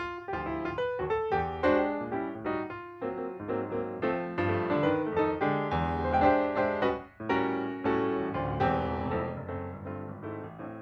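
Background piano music: many notes in quick succession over a low bass, fading out near the end.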